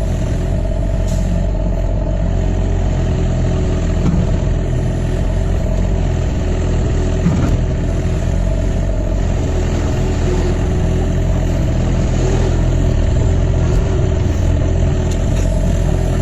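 Excavator's diesel engine running steadily while the machine digs and trims a ditch slope.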